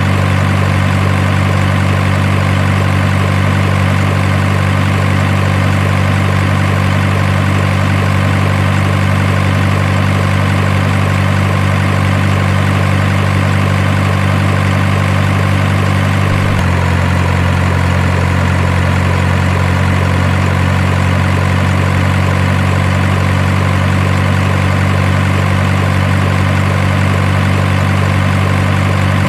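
Heavy truck engine idling, very steady and even, with a slight change in its note about two-thirds of the way through.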